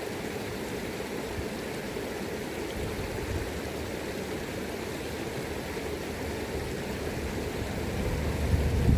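River current rushing steadily. A low rumble of wind on the microphone builds near the end.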